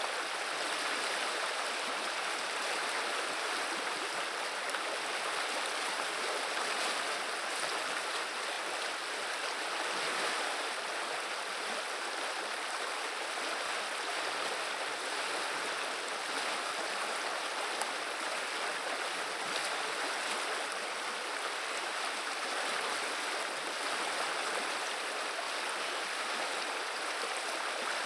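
River water running and babbling steadily, an even rushing with no breaks.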